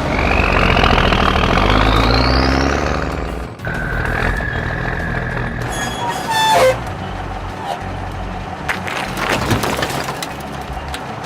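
Cartoon truck sound effects over background music: a truck engine with a whine rising steeply over the first three seconds, then a held tone, a quick falling glide, and clattering toward the end.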